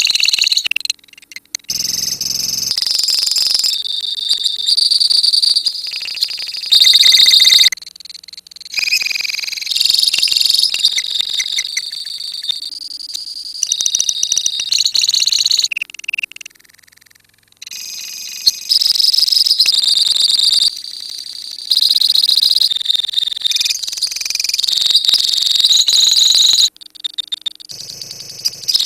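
A colony of lovebirds chattering in long, rapid, shrill trills, the 'ngekek' song, in stretches of a few seconds that cut in and out sharply with brief pauses between them.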